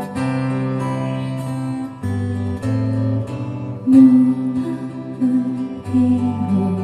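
Slow song intro on acoustic guitar, strummed, over sustained bass notes.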